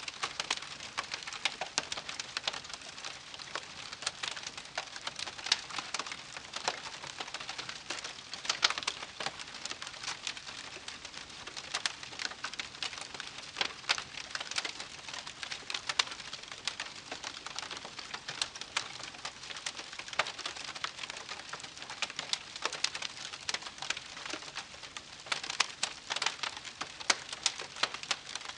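Wood campfire crackling: a steady hiss of burning wood with dense, irregular snaps and pops, a few louder pops standing out.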